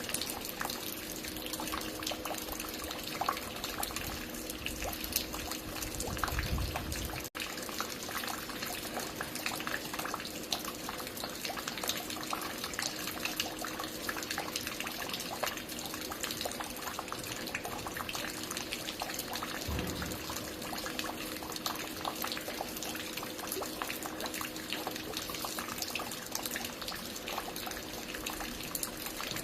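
Water falling and dripping at a construction site: a steady, dense patter of many small splashes, with a faint steady hum underneath.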